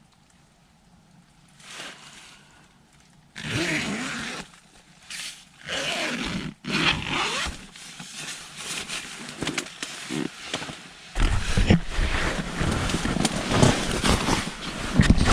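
Rustling and scraping of tent fabric and bedding handled close to the microphone, starting a few seconds in after a quiet spell, with louder, rumbling handling noise from about eleven seconds in.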